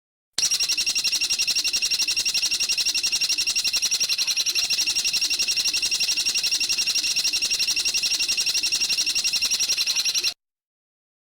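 Recorded bird trill: a rapid, even string of high-pitched notes, about ten a second, held for about ten seconds and starting and stopping abruptly.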